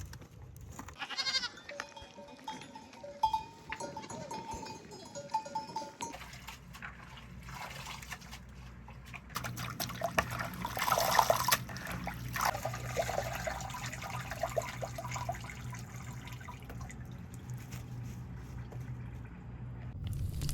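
Farm animals calling in short repeated cries, with a louder cry about ten seconds in. A steady low hum comes in about six seconds in.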